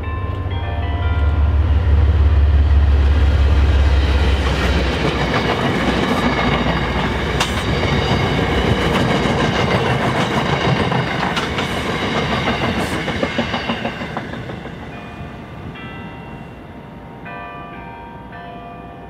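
A train passing at speed: a heavy low rumble for the first few seconds, then the rush and clatter of wheels over rail joints, which fades away after about fourteen seconds.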